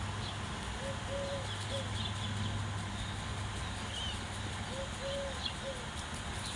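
A bird's low three-note call, the middle note longest, heard twice about four seconds apart, with faint higher chirps of other birds. A steady low hum runs underneath.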